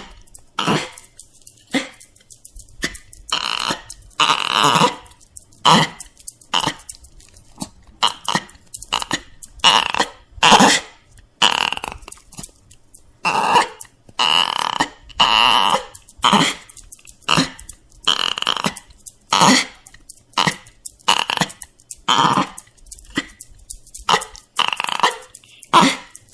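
Dogs whining and crying in short, repeated cries, roughly one a second.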